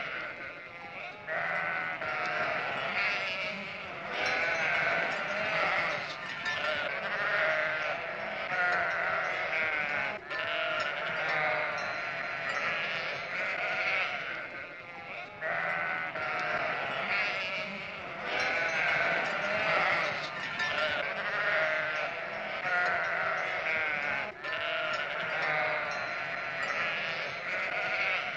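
A flock of sheep bleating, many calls overlapping almost without a break.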